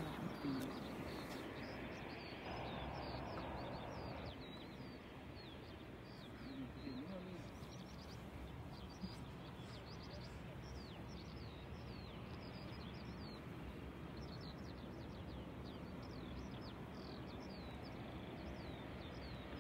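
Small birds chirping over and over, short high chirps that sweep downward, over faint steady background noise.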